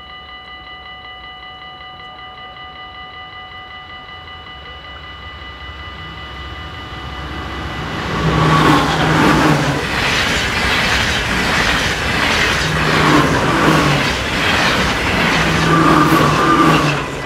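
Dutch level-crossing bell ringing steadily while a passenger train approaches and then passes at speed. The train grows louder from about six seconds in and is loud from about eight seconds in, its wheels clacking over the rail joints, then falls away sharply near the end.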